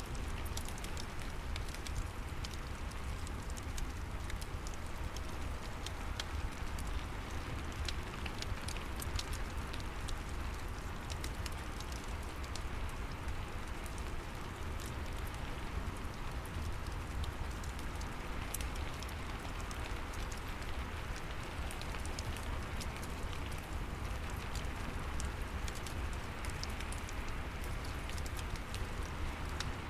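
Steady rain mixed with a fireplace crackling: an even hiss of rain, many small sharp crackles scattered throughout, and a constant low rumble underneath.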